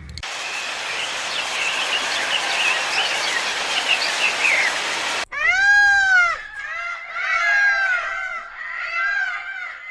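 A busy chorus of many small chirping calls, cut off about five seconds in by a series of loud animal cries that each rise and fall in pitch: one long cry, then several shorter overlapping ones.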